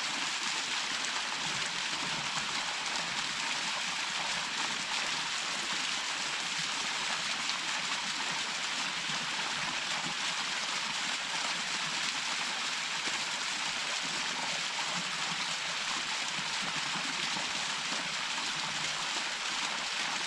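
A small waterfall's water falling and splashing steadily, an even hiss with no pauses or breaks.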